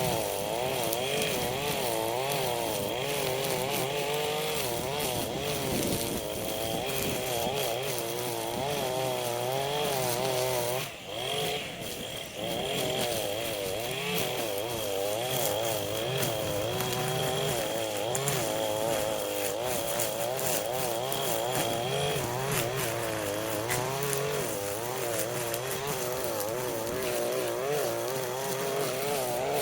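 Small two-stroke engine of a handheld power tool running at high revs, its pitch wavering up and down as the load changes. The engine eases off briefly about eleven seconds in.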